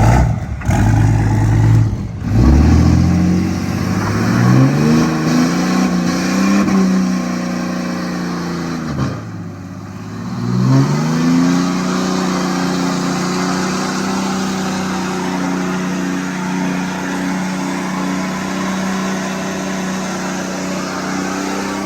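A 6.7 L Cummins inline-six turbo-diesel in a 4th-gen Ram revs up and holds at high rpm with the rear tires spinning in a burnout. The revs drop away about nine seconds in, climb back quickly, and hold steady.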